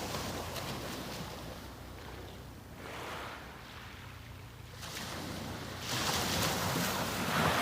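Waves breaking on the beach and washing up the shore in repeated surges, the biggest wash building from about six seconds in. A steady low hum runs underneath.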